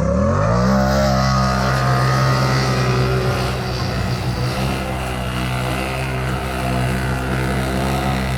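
Stock UTV engine revving up: it climbs in pitch over the first second, then holds a steady high rev.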